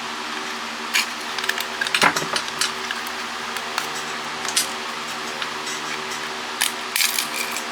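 Hard plastic cordless-phone parts clicking and clattering as they are handled and dropped while the phones are torn down for scrap, a few scattered knocks with a cluster near the end. A steady electrical hum runs underneath.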